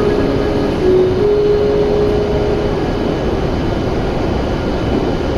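W7 series Shinkansen train running: a steady, loud rumble with a faint low whine that dips and rises slightly in pitch about a second in.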